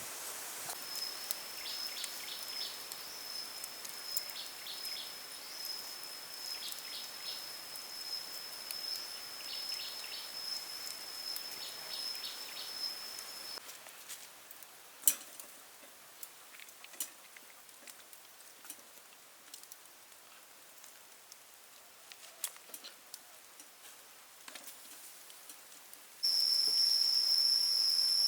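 Insects giving a steady high trill with short chirps in repeated groups. About halfway through it cuts to a quieter stretch of scattered sharp clicks, and near the end a loud, steady high insect drone starts suddenly.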